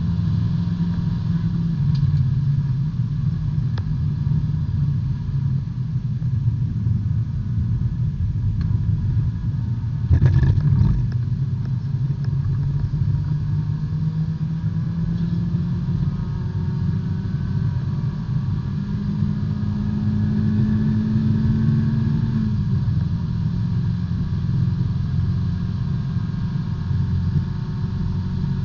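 In-cabin sound of a small B-Spec race car's engine running at low, fairly steady revs, with road and tyre noise. There is a knock about ten seconds in, and around twenty seconds in the engine tone rises briefly, then drops off suddenly.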